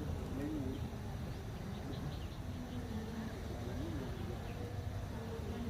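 Outdoor ambience with a steady low rumble and faint, distant voices of people talking.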